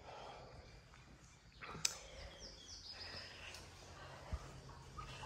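Quiet background with a sharp click about two seconds in, followed by a quick run of short, high, falling bird chirps.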